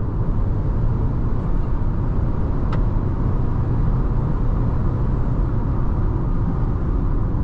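Steady low road and running noise from the Nissan Tekton's 1.3-litre turbo petrol engine, tyres and wind as the car cruises at highway speed, around 130 km/h. One faint click comes about two and a half seconds in.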